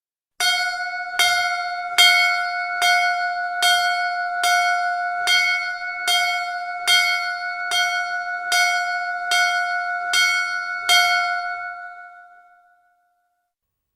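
Hindu temple bell struck in a steady rhythm, about fourteen strokes a little under a second apart, each ringing into the next. After the last stroke it rings out and fades away.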